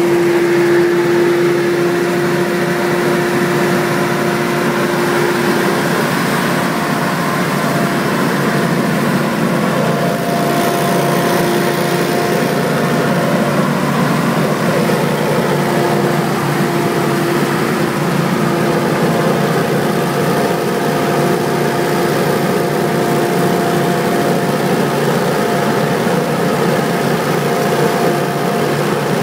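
Hurricane X3 stand-on leaf blower running steadily at working speed: its engine and fan make a loud, even hum with a steady tone through it.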